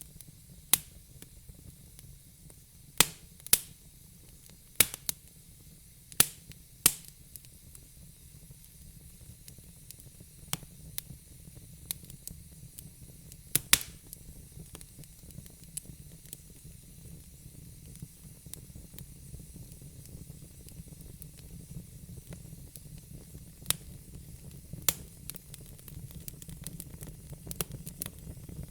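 Fire crackling: about a dozen sharp, irregular pops over a low, steady hiss and rumble, with smaller crackles coming thicker near the end.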